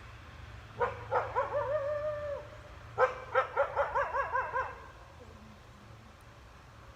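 Wolf howling: a held note of about a second and a half, then a quick run of short wavering yips.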